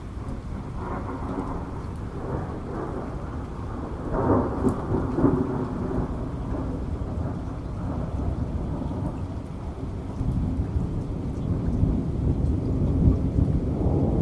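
Heavy rain falling steadily with thunder rumbling through it. The low rumble swells about four seconds in and builds again near the end.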